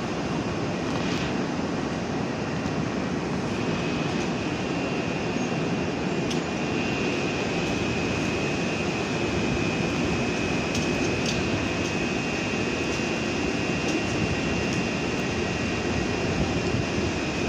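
PESA Dart ED161 electric multiple units giving off a steady machinery noise, with a high, thin, steady whine that sets in a few seconds in. A few faint clicks sound over it.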